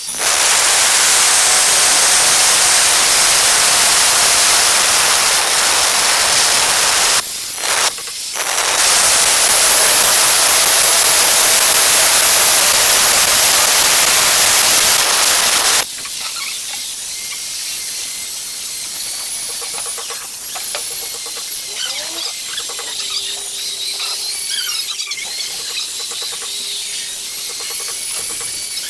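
Angle grinder cutting ceramic tile: a loud hiss with a high whine, broken by two short pauses about seven and eight seconds in. About sixteen seconds in it drops to a quieter, lighter run.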